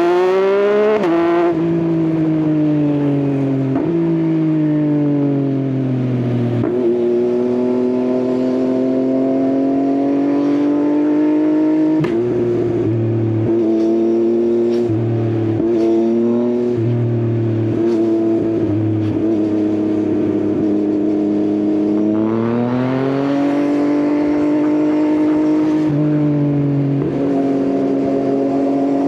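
Yamaha XSR900's inline three-cylinder engine through an Akrapovič exhaust. It revs up and shifts near the start, rolls off and holds steady revs for a long stretch, then pulls up again about three-quarters of the way through.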